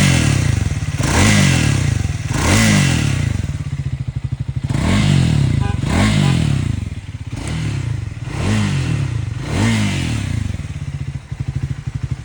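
Triumph Speed 400's 398cc single-cylinder engine revved in repeated short throttle blips, each rising and falling straight back. It settles into a steady, pulsing idle near the end.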